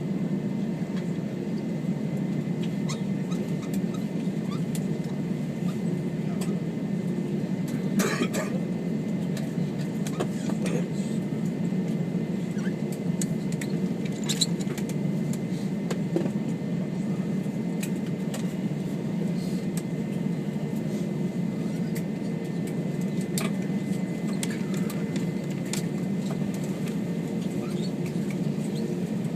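Steady cabin noise inside an Airbus A321 taxiing after landing: a low hum from the idling engines and air conditioning. Scattered light clicks and rattles come through it, the most distinct about eight and fourteen seconds in.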